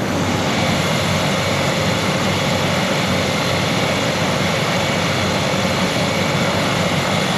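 A helicopter's engine running steadily on the ground, a constant mechanical noise with a steady whine.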